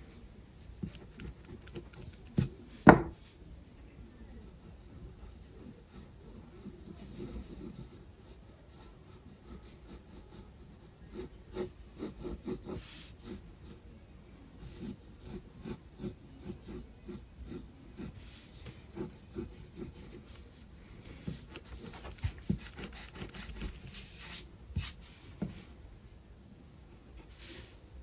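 Graphite pencil scratching and rubbing on sketchbook paper in many short, quick strokes. A single sharp knock about three seconds in.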